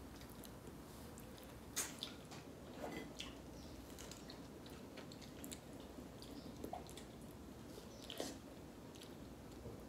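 Faint mouth sounds of biting and chewing soft mango slices, with a few scattered small wet clicks and smacks.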